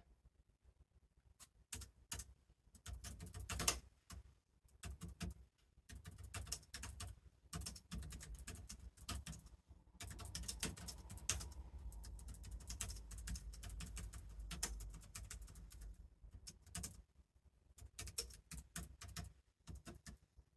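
Typing on a computer keyboard in quick runs of key clicks, with short pauses between spurts.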